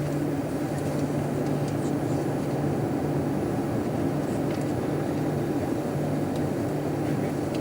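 Steady cabin drone inside an Airbus A340-300 airliner before takeoff, with a constant low hum from its running engines and air-conditioning system.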